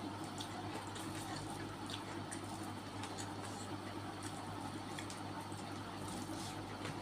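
Faint, scattered chewing clicks and mouth sounds from a person eating, over a steady low hum.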